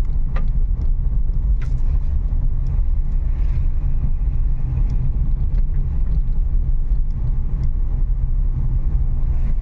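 Renault Kiger driving slowly over a rough, broken forest road, heard inside the car: a steady low rumble of engine and tyres with a few light knocks and rattles.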